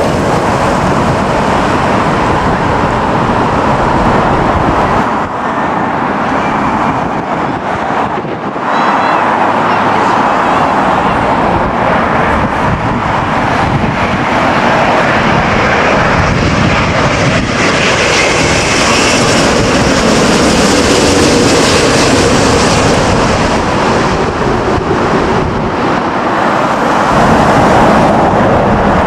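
Jet airliner on final approach to land, passing low overhead with a loud, steady jet engine roar that grows brighter, with more high whine, in the second half.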